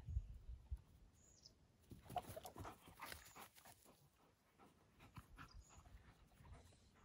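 Faint sounds of a dog moving about close by: a low thump at the start and a cluster of short scuffles and breaths about two to three seconds in. A small high chirp recurs every couple of seconds.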